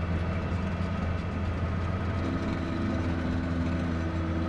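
Snowcat diesel engine running steadily, a deep even drone heard from inside the cab. A higher steady whine joins a little over halfway through.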